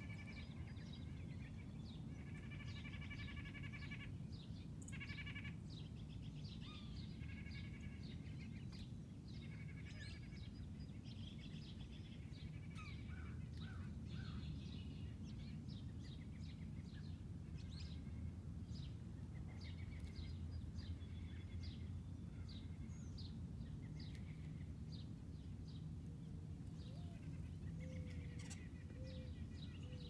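Birds chirping and calling, a steady stream of short high notes, over a low steady rumble.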